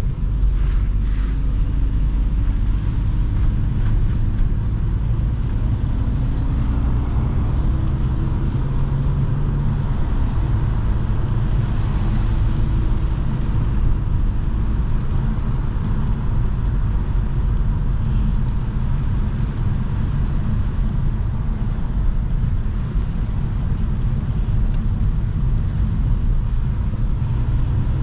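Mercedes C43 AMG driving, its engine and exhaust running steadily under a haze of tyre and road noise. The engine note climbs gently several times in roughly the first ten seconds, then settles into a steady cruise.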